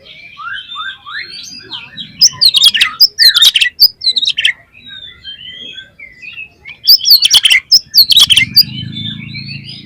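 Oriental magpie-robin (kacer) singing a varied song: continuous warbling chatter with two loud bursts of rapid sweeping notes, about two seconds in and about seven seconds in.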